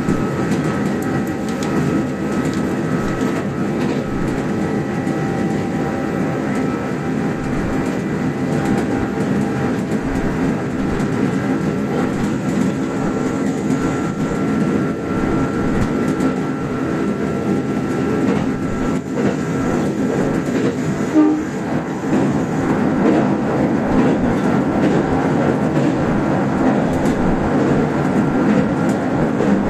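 Kintetsu electric express train running, heard inside the lead car: a steady rumble of wheels on the standard-gauge rails with a faint motor whine, and a brief louder sound about two-thirds of the way through.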